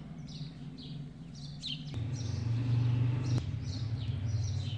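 Small birds chirping in short, repeated high calls. A steady low hum comes in about two seconds in and runs under them.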